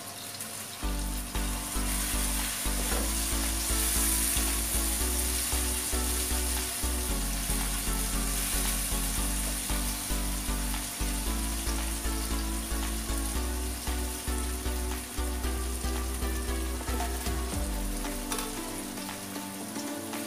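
Diced pork and tomato sizzling as they stir-fry in a hot oiled wok, with a spatula stirring and scraping through them. Background music plays underneath with a steady bass line.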